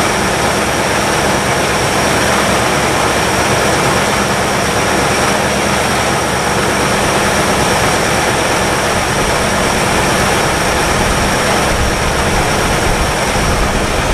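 1962 Chevrolet engine running steadily at fast idle while warming up, fresh oil in it. It has quieted down now that it's warmed up.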